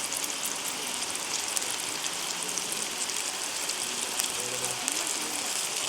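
Food sizzling and crackling in a hot pan as it fries.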